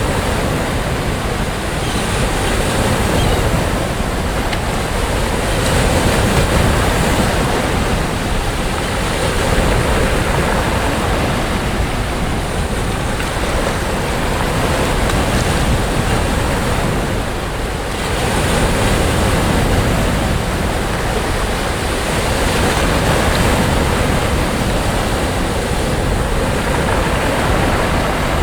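Sea surf washing onto a beach: a continuous rush of breaking waves that swells and eases every few seconds, with a short lull about two-thirds of the way through.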